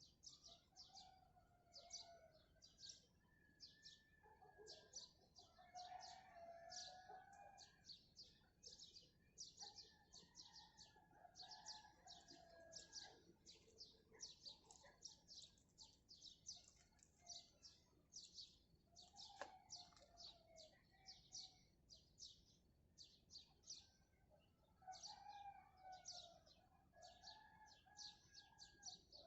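Faint mixed birdsong. Several short, high chirps a second run throughout, and other birds' lower, longer calls come and go, most at about 6–8 s, 10–13 s, 19–20 s and 25–27 s.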